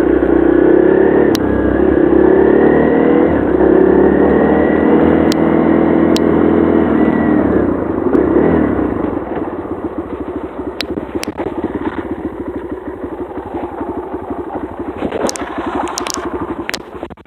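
Dirt bike engine running under throttle, its pitch rising and falling. About halfway through it eases off to a lower, evenly pulsing putter at low revs.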